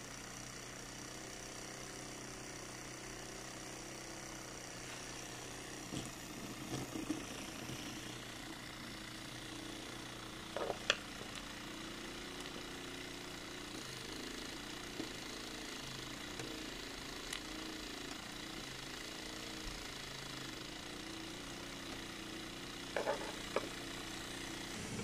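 Small live-steam engine of an HO-gauge model locomotive running steadily, with a few sharp clicks about 6, 7, 11 and 23 seconds in. The engine is a modified double-acting design with a lengthened stroke, built for more torque.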